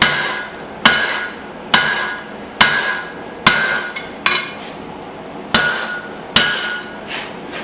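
Blacksmith's hammer striking hot spring steel on an anvil, tapering a hatchet blade. About eight blows come a little under a second apart, each with a short metallic ring, with one lighter blow and a brief pause near the middle.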